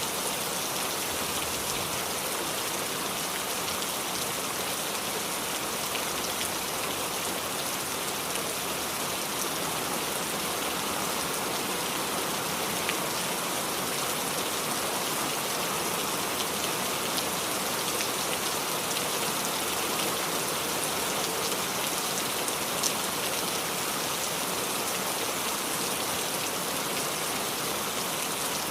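Steady rain falling and dripping on the leaves of a small tree: a dense, even patter with a few single drops standing out.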